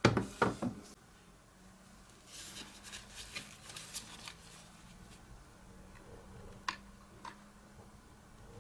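Hands handling and working on plastic parts: two loud knocks at the start, a run of small clicks and rattles a couple of seconds in, then two sharp single clicks near the end.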